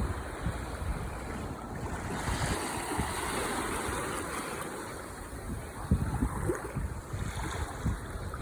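Ocean waves washing onto the shore, a steady surf hiss that swells about two to four seconds in. Wind rumbles on the microphone, with a couple of sharper gusts near the end.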